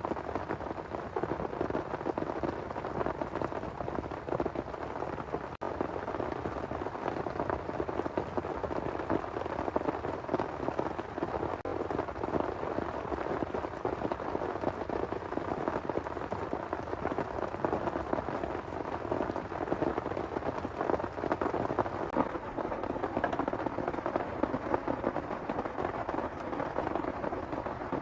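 Heavy rain falling steadily, a dense even hiss made of countless sharp individual drop hits.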